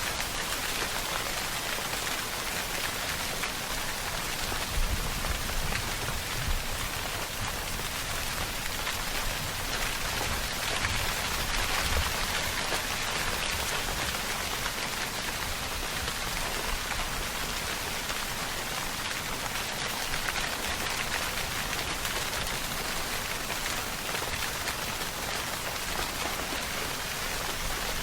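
Steady rainfall: an even hiss of many drops hitting a surface, with a few brief low bumps about five, six and a half and twelve seconds in.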